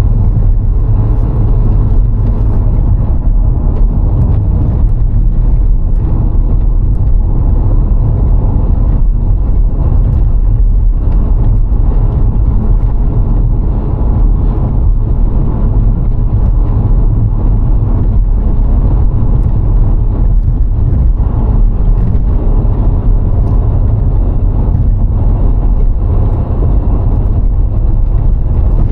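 VW Golf IV 1.6 driving at a steady speed: a loud, steady low rumble of engine, tyres and wind.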